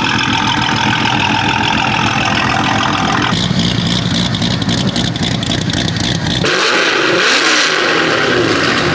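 Loud car engines revving in a string of short clips that change abruptly twice.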